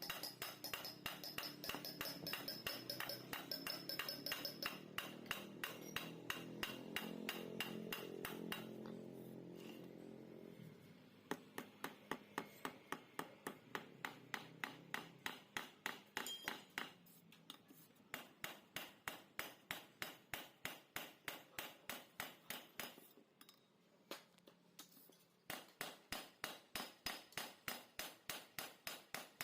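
Hammer striking metal in steady, even blows, about two a second, with a short pause near the end: work on a motorcycle exhaust being gutted out. A low steady hum runs under the blows for the first third.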